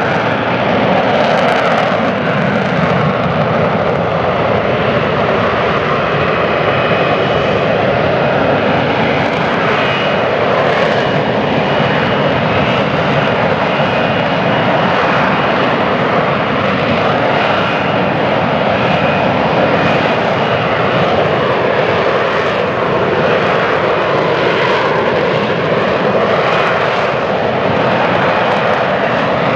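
F-35B Lightning II hovering in short-takeoff/vertical-landing mode, its jet engine and lift fan running loud and steady at high thrust, with faint steady high whining tones over the noise.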